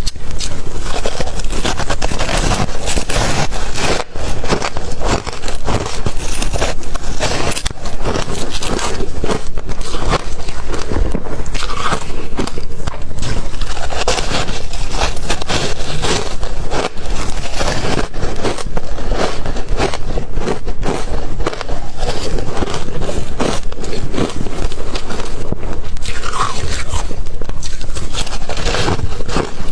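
Close-miked crunching of ice being bitten and chewed: a dense, continuous run of loud cracks and crackles.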